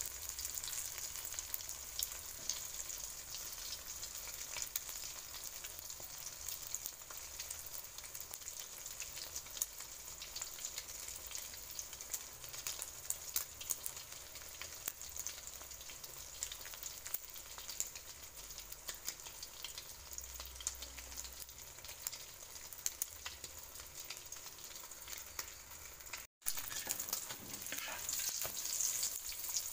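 Flour-battered egg deep-frying in hot oil in a metal wok: a steady sizzle with dense small crackles of spitting oil. Near the end a spatula scrapes in the wok as the egg is lifted and turned, and the sound drops out for an instant just before.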